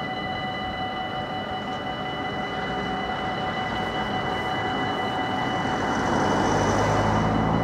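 Level crossing warning bells ringing steadily while an approaching train's rumble grows louder, loudest near the end.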